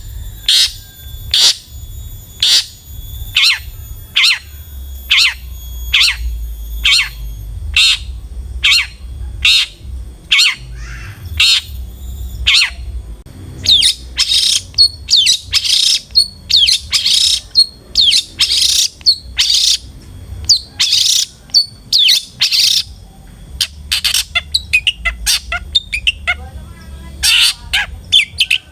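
Long-tailed shrike (cendet) calling: harsh, scratchy notes repeated evenly nearly twice a second, turning louder and denser about halfway through, then breaking into a quick chattering run near the end.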